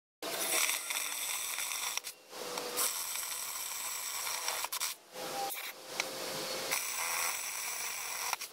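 Power jigsaw cutting wood, running in three stretches with short stops about two and five seconds in.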